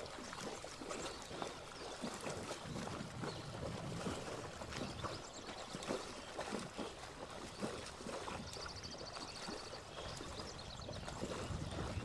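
Cows wading through deep water, splashing and sloshing irregularly as their legs push through it.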